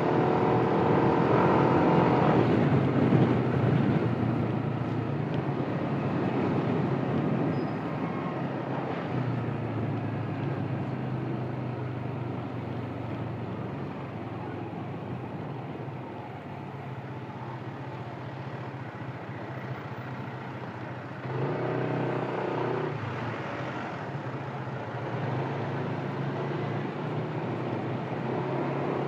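Yamaha NMAX 155 single-cylinder scooter being ridden, a steady low engine and road hum, picked up by a phone headset mic with noise suppression on. Brief pitched sounds stand out near the start and again about 22 seconds in.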